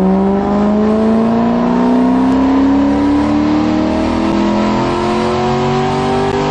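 Cammed LS V8 of a 2007 Chevrolet Corvette making a chassis-dyno pull: the engine runs under load with the revs climbing steadily and smoothly, no shifts or breaks.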